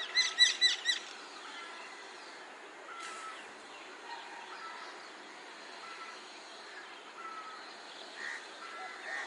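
Common myna calling from a tree: a quick run of four loud notes in the first second, then softer short whistled notes every second or so.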